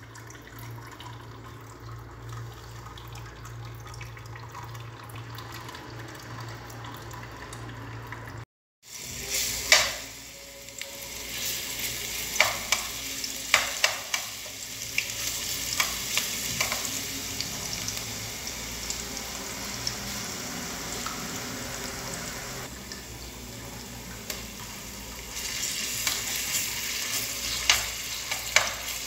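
Ginger-garlic paste sizzling in hot oil in a metal pot from about nine seconds in, with a metal spoon stirring it and clinking sharply against the pot now and then. Before that there is only a low steady hum.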